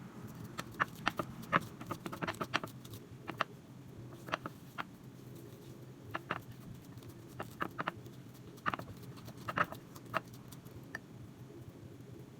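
Irregular light clicks and taps of objects being handled, in clusters, over a steady low hum.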